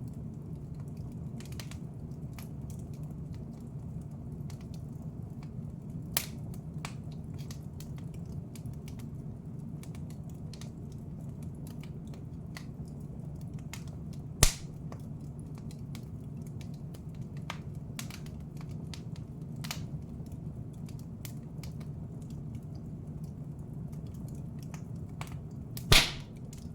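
Wood fire crackling in a fireplace: scattered small crackles over a steady low background noise, with three sharp pops, the loudest near the end.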